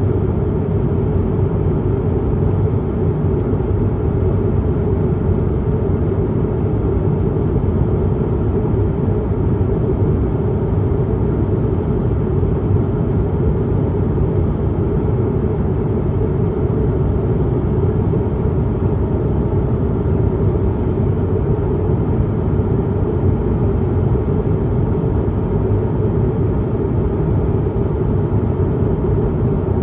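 Steady cabin noise inside an Airbus A220-300 in climb: its Pratt & Whitney PW1500G geared turbofan engines and rushing air make an even, low rumble with a faint high whine.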